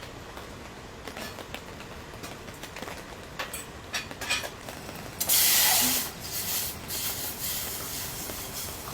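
A loud, sharp hiss about five seconds in, lasting under a second, then a softer, wavering hiss, over a steady background noise with scattered light clicks and taps.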